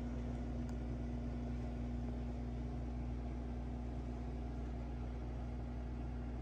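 Steady low hum of a running appliance motor, with one faint tick about a second in.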